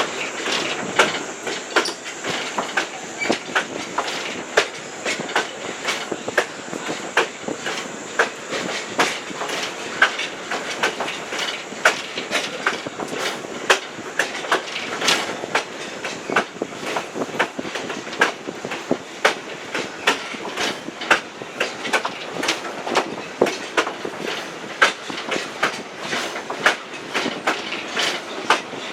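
Passenger coach rolling along the track, heard on board: a steady rumble and rattle with sharp wheel clicks over the rail joints, several a second.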